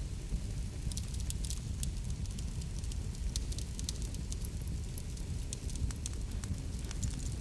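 Wood fire burning, a steady low rumble with frequent sharp crackles and pops.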